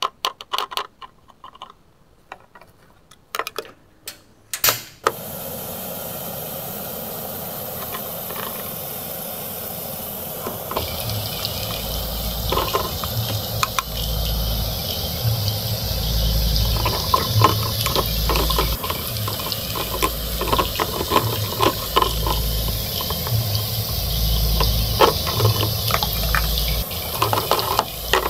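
Food strips frying in a miniature pan: a few clicks of the plate and pan first, then a steady sizzle that begins about five seconds in and grows fuller later on. A plastic spatula scrapes and taps in the pan over the sizzle.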